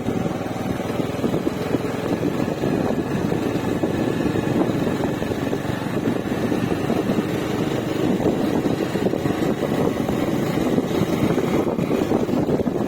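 Bajaj Avenger Cruise motorcycle's single-cylinder engine running steadily.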